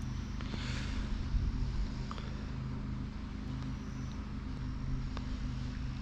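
A low, steady engine hum.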